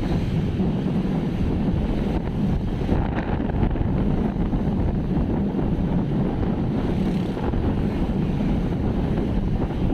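Steady wind rumble buffeting the microphone, mixed with the running noise of a moving vehicle.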